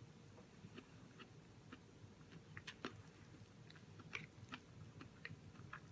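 A person faintly chewing a cooked Brussels sprout: soft, irregular mouth clicks a few times a second.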